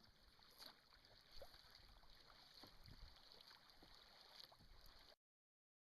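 Faint water and wind noise from a canoe out on the river, with a few soft knocks. It cuts off to dead silence about five seconds in.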